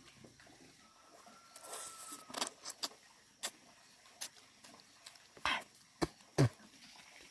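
A string of irregular sharp clicks and knocks, about a dozen, after a brief rustle; the loudest knock comes near the end.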